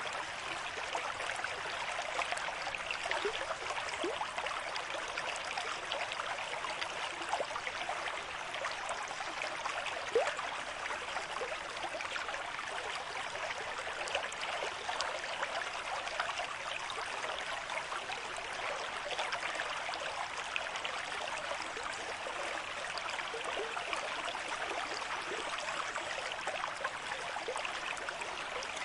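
River stream flowing at a moderate rate: a steady rush of water with many small gurgles and splashes.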